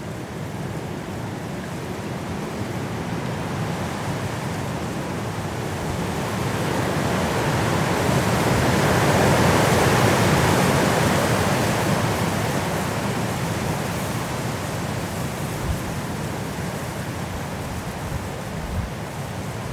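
Strong wind rushing through forest trees in a snowstorm, a steady roar of noise that builds into a big gust about halfway through and then eases off.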